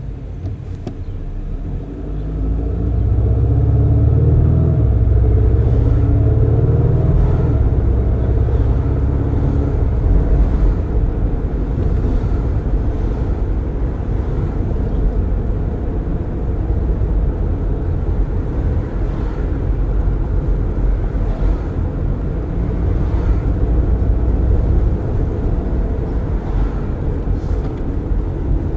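A car accelerating, its engine rising in pitch for several seconds, then settling into a steady low rumble of engine, tyres and wind heard through open windows while cruising.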